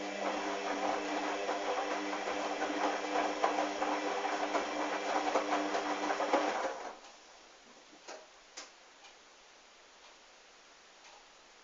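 Hoover washing machine's drum motor tumbling a wet, sudsy towel load: a steady motor hum with swishing and rattling that stops suddenly about seven seconds in, as the drum pauses between turns. A few faint clicks follow.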